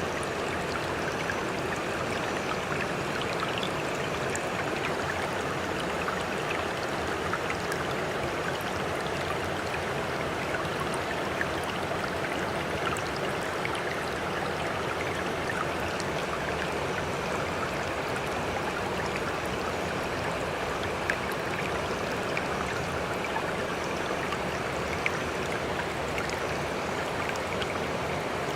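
Sea water washing and splashing steadily, with a constant rush and many small droplet ticks, with no rise and fall of breaking waves.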